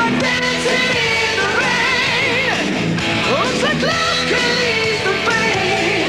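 Hard rock song playing steadily and loud: a full band with electric guitar, and a voice singing.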